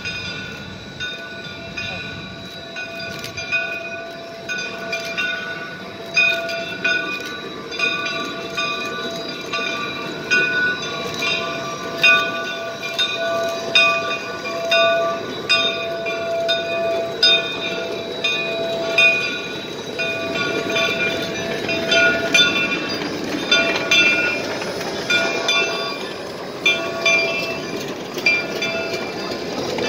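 A geared steam locomotive's bell rings steadily, struck about once a second. The engine works underneath it with a rushing steam noise that grows louder in the second half.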